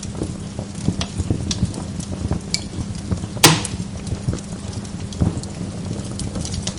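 Wood log fire crackling, with many small scattered pops and one loud, sharp pop about three and a half seconds in.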